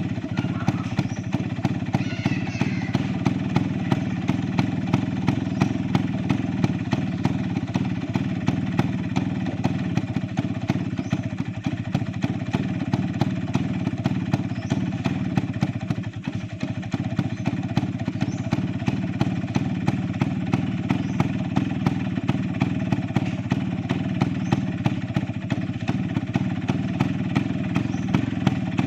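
Two-stroke single-cylinder Vespa Sprint Veloce engine running steadily through a Polini Big Box exhaust, with a brief dip in level about halfway through.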